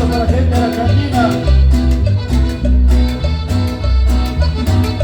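A live Latin tropical dance band playing, with a steady beat of bass and percussion under melody instruments.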